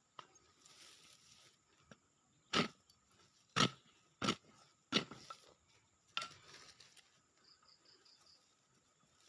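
Five heavy strikes of a digging tool chopping into soil and roots, roughly a second apart, as a serut tree is dug out for bonsai stock. A faint run of small chirps follows near the end.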